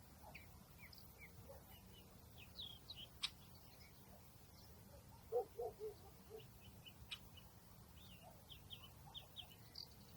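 Faint outdoor birdsong: small birds chirping in short, high, scattered notes, with a quick run of lower notes about five seconds in and a couple of sharp clicks, over a steady low rumble.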